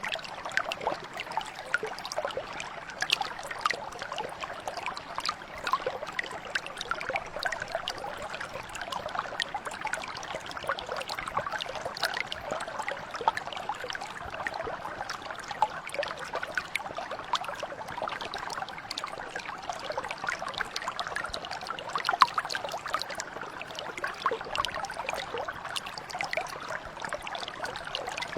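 Shallow stream or mountain brook flowing steadily over stones, a continuous trickling and splashing with many small bright droplet sounds.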